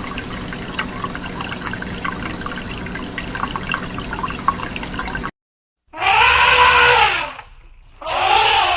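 A steady splashing, water-like noise with many small clicks, cut off suddenly after about five seconds. After a short gap, two loud animal calls follow, each rising then falling in pitch, the first about a second long, the second shorter.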